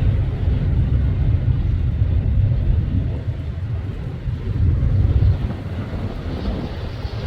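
Train rumbling past, a steady low rumble with a lighter hiss above it, with wind buffeting the microphone.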